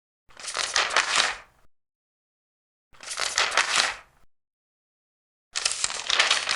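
Large paper pages being turned three times, about two and a half seconds apart. Each turn is a crisp rustle lasting just over a second, with dead silence between, and the last one starts near the end.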